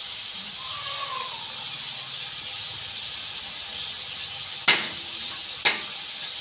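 Chicken pieces sizzling in oil in a metal wok, a steady hiss, with two sharp knocks of the metal spatula against the wok near the end, about a second apart.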